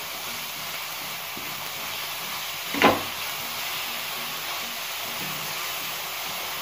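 Shredded vegetables sizzling steadily in a hot wok while being stir-fried, with one sharp knock about three seconds in.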